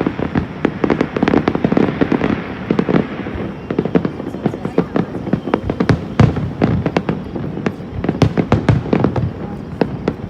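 Fireworks display: a dense run of cracks and bangs, several a second, with the loudest bursts about six and eight seconds in.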